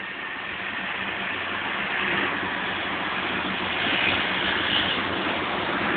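Class 175 diesel multiple unit approaching, its diesel engines humming under a broad train noise that grows steadily louder.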